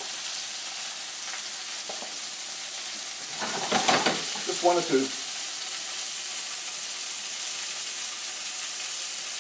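Chicken pieces frying in a skillet, a steady sizzling hiss. About four seconds in there is a brief louder noise as the pan is handled on the burner.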